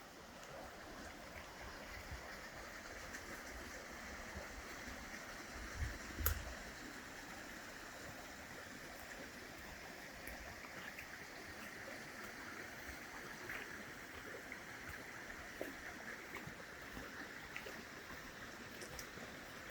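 Creek water running steadily over rocks, an even rushing. About six seconds in there is a single sharp knock with a low thump.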